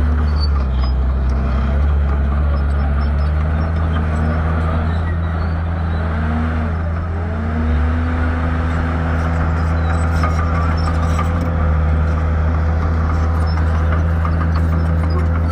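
Shantui bulldozer's diesel engine working under load, its note dipping and recovering several times, then holding steady for the second half.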